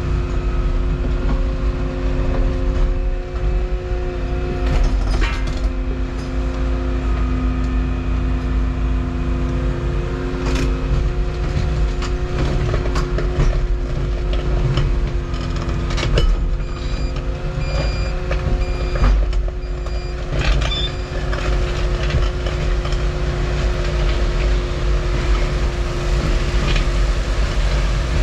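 Volvo 235EL excavator running steadily, its diesel engine and hydraulics working, with occasional sharp knocks. Partway through, a high warning alarm beeps repeatedly for a few seconds.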